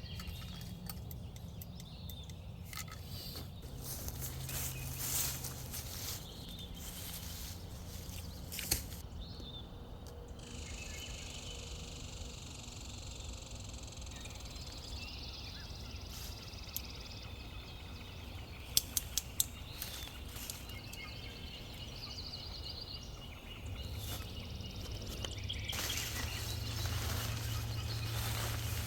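Outdoor woodland ambience with scattered small clicks and knocks, and a steady low hum underneath.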